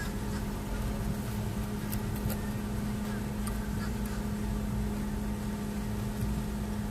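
Steady mechanical hum with a constant low drone and rumble beneath, unchanging throughout, with a few faint clicks around the middle.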